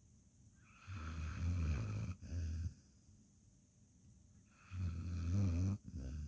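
Sleeping dog snoring: two long snores about three and a half seconds apart, each with a short break near its end.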